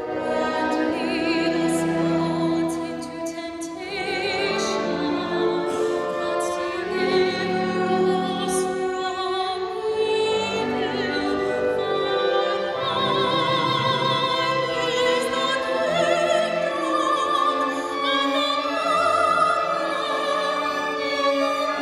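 Classical solo singing with wide vibrato over orchestral accompaniment, sacred music performed live in a church.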